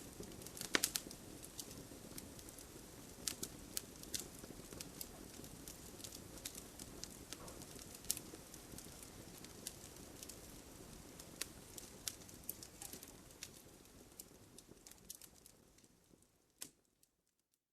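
Wood fire burning in a fireplace, crackling with irregular sharp pops and snaps over a low steady hiss. It fades out near the end.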